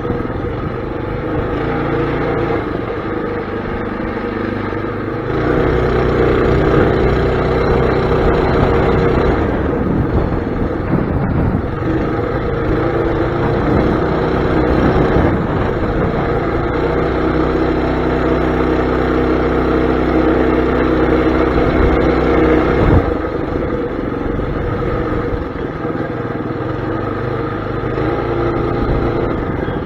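Mini bike's small engine running under a rider, getting louder about five seconds in as it is throttled up and easing off again near the end.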